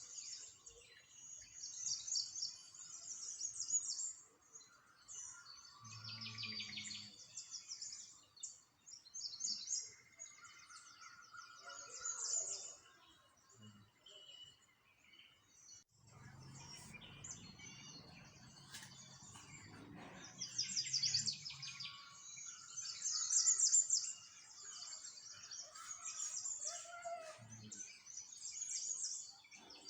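Small songbirds chirping and trilling in quick, overlapping bursts, with a faint low rumble underneath about halfway through.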